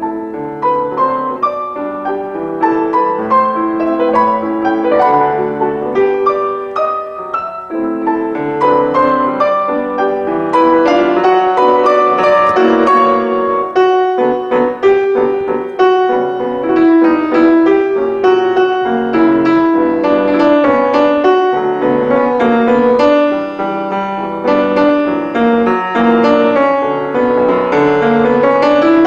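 Piano music: a flowing run of struck notes and chords, played steadily throughout.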